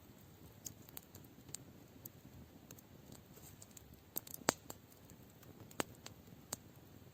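Wood campfire crackling: irregular sharp pops and snaps over a low hiss, the loudest about four and a half seconds in.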